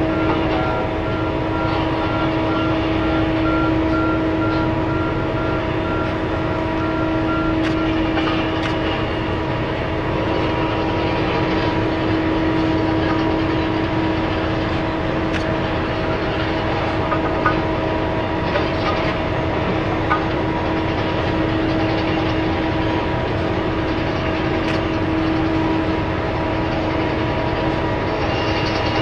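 Giant mining dump truck running steadily, a constant whine with several steady tones over a heavy rumble.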